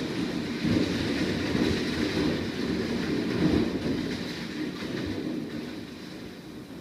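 Heavy downpour: rain pouring down as a steady, dense rushing noise that eases a little near the end.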